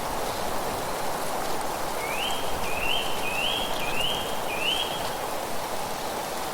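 Steady rushing of wind and rustling leaves. A songbird repeats five quick rising notes from about two seconds in until about five seconds in.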